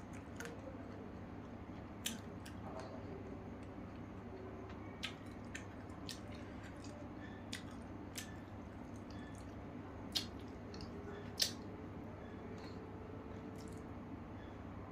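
Close-up eating sounds: wet chewing and mouth smacks while eating rice and fish, with a sharp click every second or so, the loudest two about ten and eleven seconds in, over a steady low hum.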